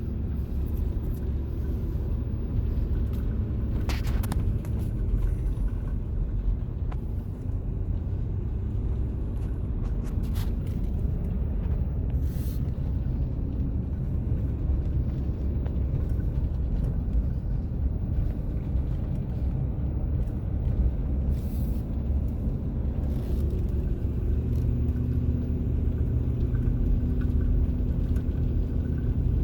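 Vehicle engine and road rumble heard from inside the cab while driving slowly, steady and low, with a few short clicks.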